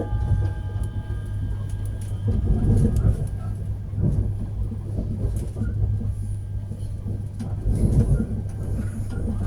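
Passenger train heard from inside the carriage: a steady low hum with rumbling running noise that swells and eases a few times.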